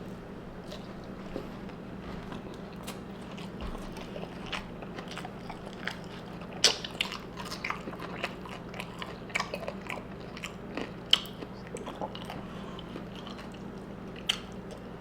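A person chewing a mouthful of Doritos nachos with cheese, the tortilla chips giving irregular sharp crunches, loudest twice past the middle, over a steady low hum.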